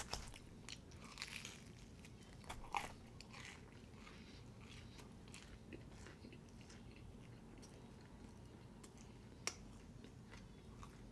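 Faint chewing and mouth sounds of a person eating, with scattered soft smacks and clicks; the sharpest click comes about nine and a half seconds in.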